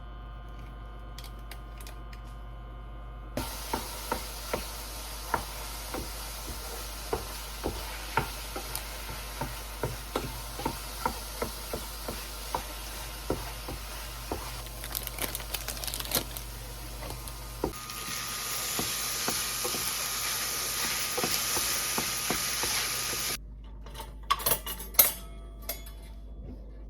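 Kitchen sounds: a utensil clacking repeatedly against a pot or dishes over a steady hiss. The hiss grows louder and brighter for several seconds past the middle, and a few sharper clacks follow near the end.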